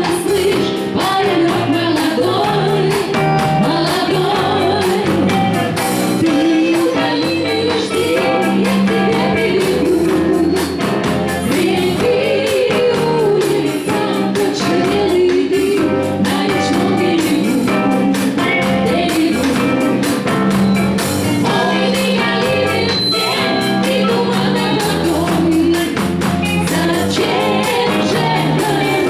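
A band playing a song with a lead singer, amplified.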